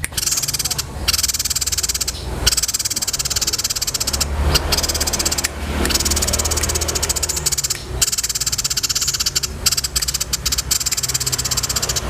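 A rapid, high-pitched pulsing trill in long runs broken by short pauses: an animal call from a songbird-training recording.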